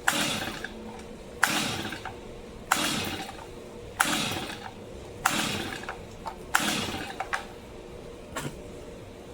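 Recoil starter of a choked Stihl MS 250 two-stroke chainsaw pulled six times in quick succession, each pull a sharp click and a rasping whirr of the engine being spun over. The engine does not fire at all, the fault the saw was brought in for.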